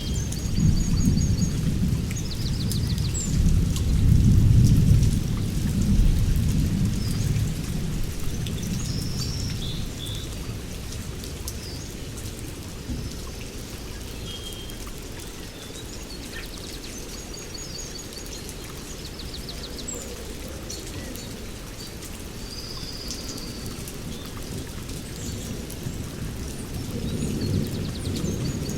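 Small birds chirping in short, high trills scattered throughout, over a steady hiss and a low rumble that is loudest in the first several seconds, swells again near the end, and sounds like rain with distant thunder.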